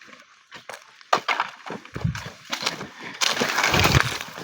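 Dry fallen leaves and twigs crunching and crackling underfoot in irregular steps, densest about three seconds in.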